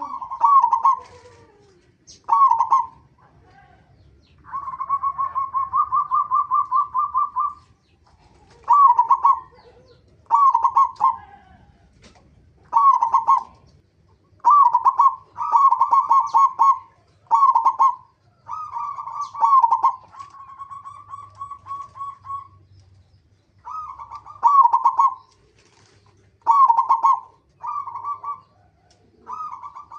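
Zebra dove (perkutut) cooing: a string of short, repeated coo phrases about a second apart, broken by a rapid trilled series of notes lasting about three seconds early on and again past the middle.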